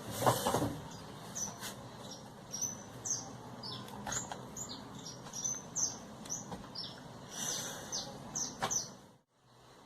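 A small bird chirping over and over: short, high, downward-sliding chirps at an uneven pace, with a brief louder noise at the very start and a sudden drop-out about nine seconds in.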